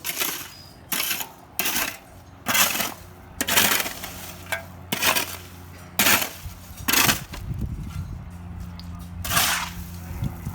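Repeated strokes of a hand tool digging into construction rubble, about nine in ten seconds, each a short scraping clatter of stones and grit, with a steady low hum underneath.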